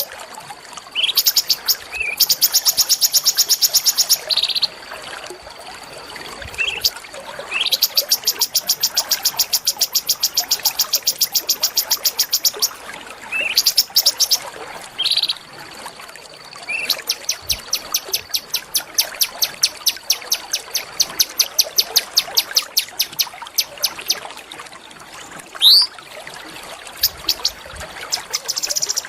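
A small songbird singing several runs of fast, evenly repeated high notes, each run a few seconds long and mostly opened by a short rising note. A faint steady high tone carries on underneath.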